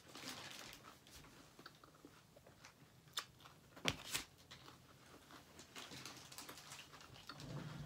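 Faint chewing and small clicking eating noises, with a couple of sharp knocks about four seconds in as a plastic food tray is slid across the table.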